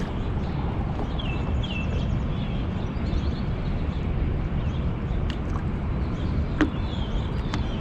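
Birds chirping in short, repeated downward calls over a steady low rumble, with a couple of sharp clicks near the end.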